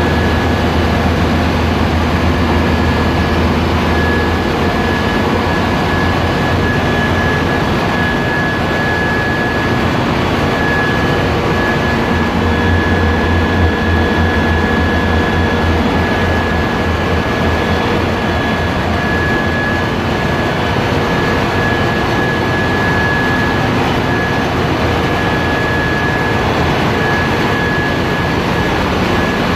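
Loud, steady machinery noise of a ship's engine room: running diesel engines and auxiliary machinery make a dense drone with a low hum. A constant high-pitched whine sits over it.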